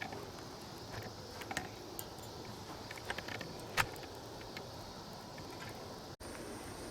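Wood fire burning in a fire pit made from an old metal pot: a steady hiss with scattered sharp crackles and snaps, one louder snap about four seconds in.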